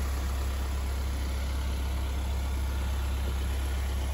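A vehicle's engine idling close by: a steady low hum that does not rise or fall.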